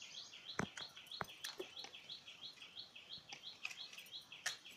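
A bird calling in the background: a fast, even run of short, high chirping notes, about four a second, with a few faint clicks and taps in between.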